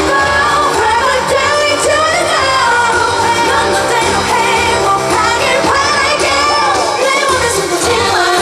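A woman singing a pop song live, her lead vocal over loud amplified backing music.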